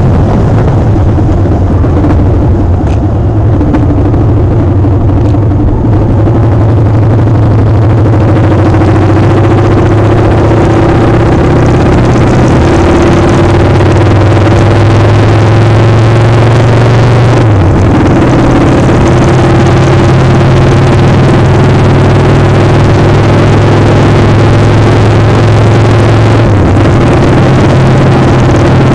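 A motorcycle engine runs steadily under heavy, loud wind noise on the microphone. Its pitch shifts briefly about two-thirds of the way through and again near the end.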